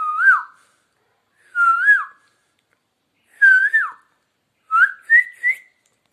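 Asian koel calling: three clear whistled notes, each rising and then dropping sharply, followed near the end by three short notes climbing in pitch.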